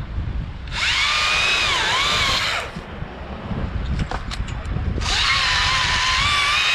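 Battery-powered top-handle chainsaw (Stihl MSA 161 T) making two cuts of about two seconds each, with a high electric motor whine. Its pitch dips under load partway through the first cut.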